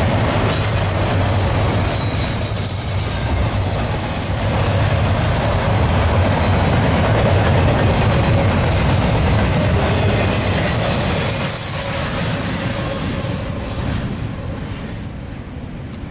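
Double-stack intermodal freight train's container well cars rolling past on steel wheels, with thin high wheel squeals now and then. The sound fades over the last few seconds as the train draws away, then cuts off suddenly at the very end.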